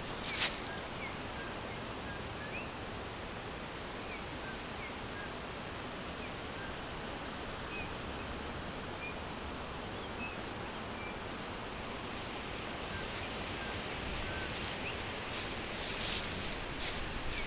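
Forest ambience: a steady hiss with faint, scattered short bird chirps, and brief rustles about half a second in and again near the end.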